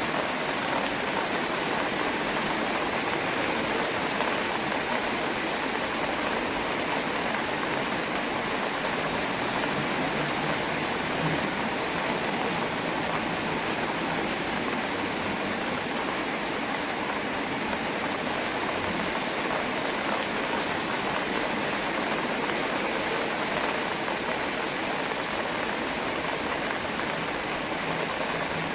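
Steady rain falling: an even, unbroken hiss of many drops with no pauses.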